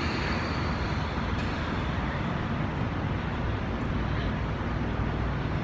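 Steady low rumble of vehicle engines running, with an even hiss over it, heard inside an underground cave warehouse.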